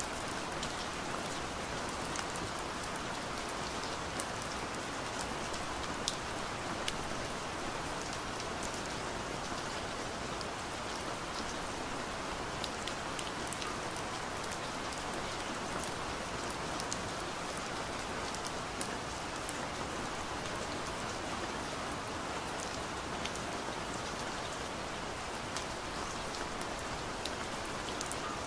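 Steady rain falling, a constant even hiss with many small scattered drop ticks.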